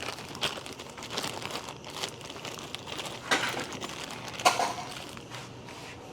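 Irregular crinkling and rustling with short clicks as small drum-brake parts are handled and sorted by hand; the sharpest clicks come a little after three seconds and about four and a half seconds in.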